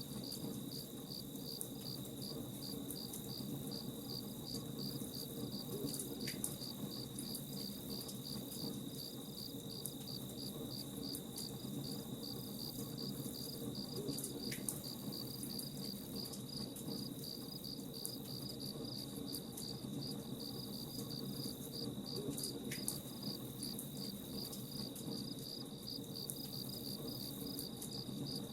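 Crickets chirping in a steady, even rhythm over the low crackle of a campfire.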